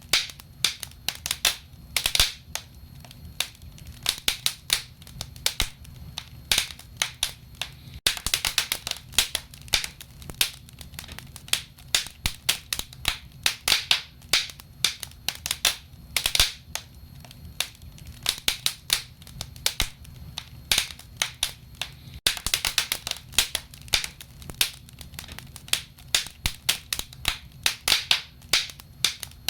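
Wood fire burning in a fireplace, crackling with many sharp, irregular pops over a steady low rumble of flame.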